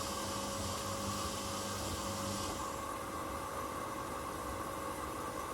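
Washing machines running mid-cycle: a steady mechanical hum with a few steady tones over a hiss. A low hum and much of the hiss drop away about two and a half seconds in.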